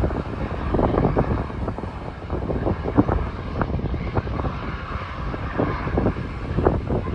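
Strong wind gusting and buffeting the microphone, over the low rumble of a jet airliner.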